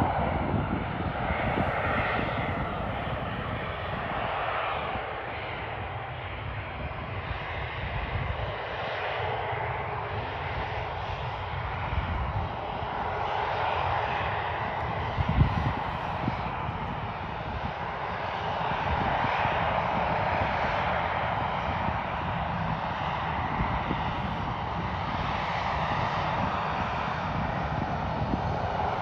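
Jet airliner engines running with a steady roar that swells and eases slowly, heard from the airport perimeter. There is a short thump about halfway through.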